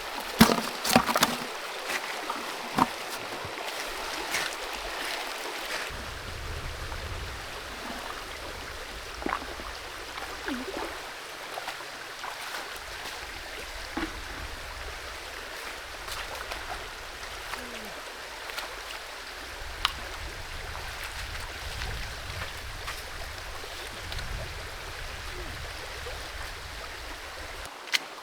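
Creek water running steadily, with a few sharp clicks and knocks scattered through it, the loudest cluster about a second in.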